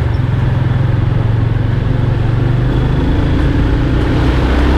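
Motorcycle engine running steadily while riding, with wind and road noise; the engine note shifts lower and grows a little louder near the end.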